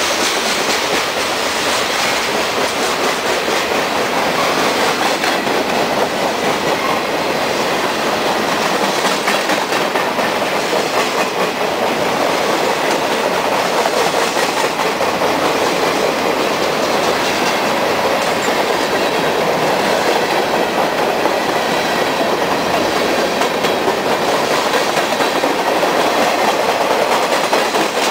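Norfolk Southern freight train cars (covered hoppers, gondolas and tank cars) rolling past close by: a loud, steady noise of steel wheels running on the rails.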